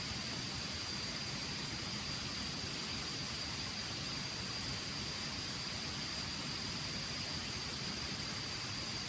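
Insects, crickets by the sound of it, trilling steadily in a continuous high-pitched drone over an even background hiss.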